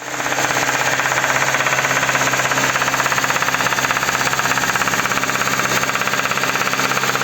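Kia K5 engine held at about 2000 rpm under throttle, with a rapid, even knocking over the engine note. The mechanics trace the knock to a failed intake cam phaser that no longer locks, leaving the intake camshaft loose.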